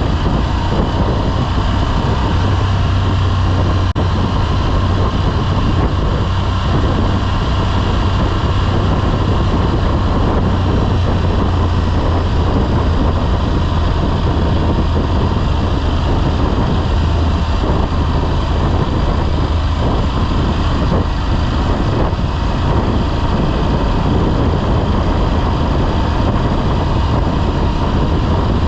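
Motorcycle being ridden at a steady pace: a steady low engine drone with road noise, unchanging throughout.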